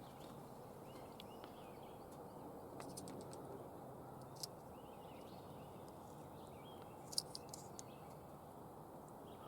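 Faint birds chirping over a low, steady background hiss, with a few small clicks.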